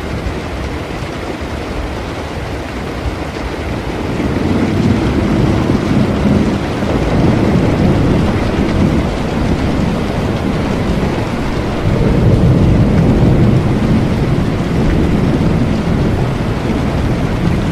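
Steady rain with rolling thunder. The low rumble swells about four seconds in and again about twelve seconds in.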